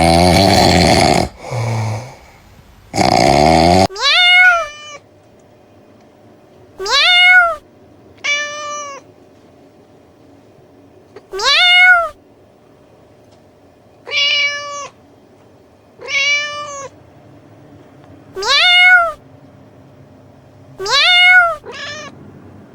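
Three loud, rough, noisy bursts over the first four seconds, then a domestic cat meowing about ten times, each meow rising and falling in pitch and lasting about half a second, a second or two apart.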